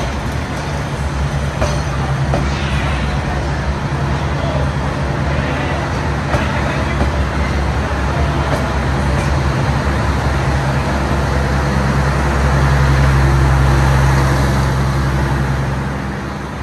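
Vietnam Railways passenger train moving slowly past the platform, wheels clicking now and then over the rails, over a steady low hum of the diesel generator in the rear power car. The hum grows loudest about twelve to fifteen seconds in as the power car passes, then eases.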